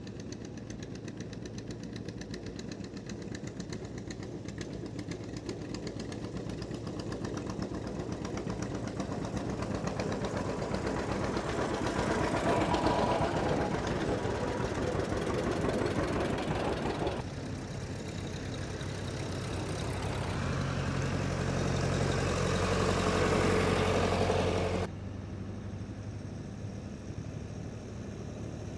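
Farm tractor engines running as tractors drive past, the sound swelling as each one comes close. It drops off abruptly twice, a little past halfway and again near the end.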